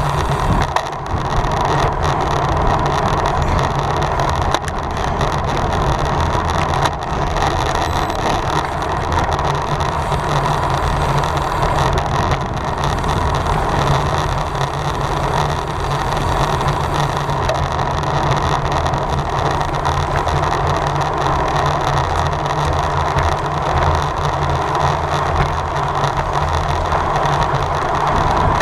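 Steady rush of wind and tyre noise from a road bike ridden at race speed, loud and unbroken with no separate events.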